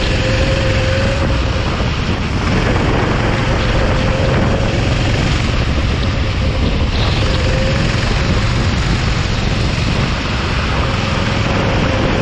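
Racing kart running on the track: a loud, steady rush of wind on the microphone, with a faint engine note that wavers and comes and goes every few seconds.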